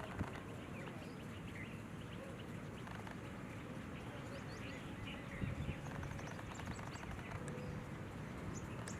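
Outdoor background hum with scattered short, faint bird chirps throughout, and a few low thumps about five and a half seconds in.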